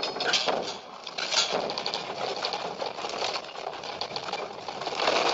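Fast, dense clattering, a rapid run of ticks and knocks over a noisy rush, with a few louder swells.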